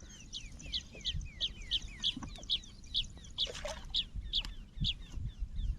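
A bird calling: a rapid run of short notes, each falling in pitch, about three a second, over a low rumbling background.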